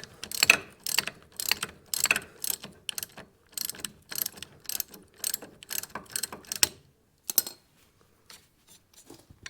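Ratchet wrench clicking in quick, even strokes, about three a second, as a brake caliper bolt is backed out; the clicking stops about two-thirds of the way through, leaving a few faint clicks.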